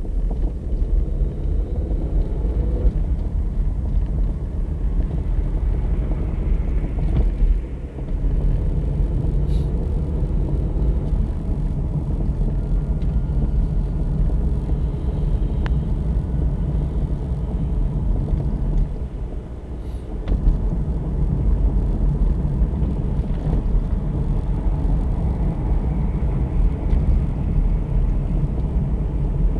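Opel Astra J on the move: a steady low road and tyre rumble, with a few faint short knocks now and then, the suspension knocking that is the car's fault.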